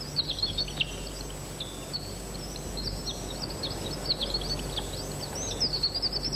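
Small birds chirping and singing, many short quick notes overlapping, over a steady background hiss; the chirping is densest near the end.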